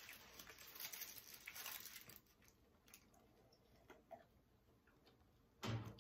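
Faint close-up mouth sounds of chewing a juicy grilled chicken sandwich, soft and wet-crackling for the first couple of seconds, then a few quiet small ticks while drinking from a glass, with one brief louder low sound near the end.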